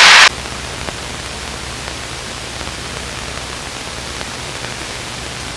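Steady hiss of static from the cockpit intercom audio feed, with a faint low drone underneath.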